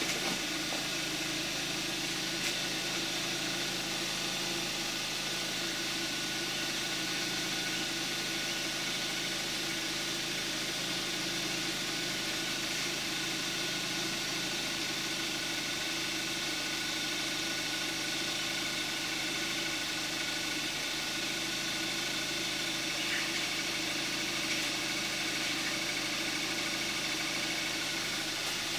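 2014 Kia Forte5 2.0 GDI direct-injection four-cylinder at about 41,000 miles, idling steadily on 5W-30 oil, heard from outside with the hood closed.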